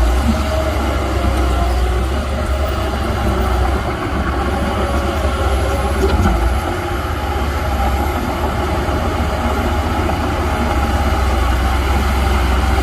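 Heavy diesel earthmoving machinery running steadily, a continuous deep engine rumble.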